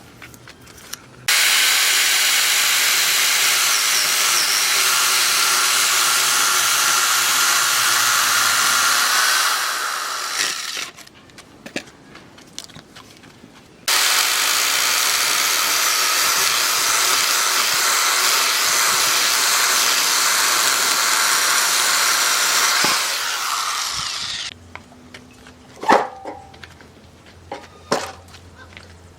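A power tool working wood, run in two long spells of about nine and ten seconds, each starting abruptly and winding down at its end. A few sharp knocks follow near the end.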